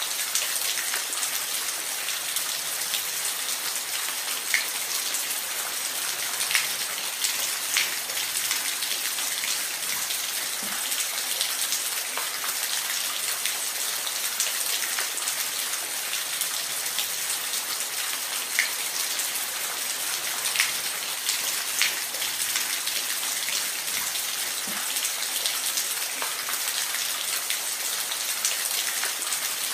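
Steady hiss of falling water, with scattered louder drips and splashes standing out every second or two.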